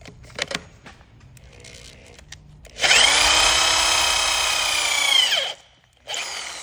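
Electric drill with a 14 mm bit drilling out a cylinder-head bolt hole in an engine block, to take a thread repair insert. A few clicks come about half a second in. About three seconds in the drill spins up to a steady high whine, runs for roughly two and a half seconds and winds down, then starts again briefly near the end.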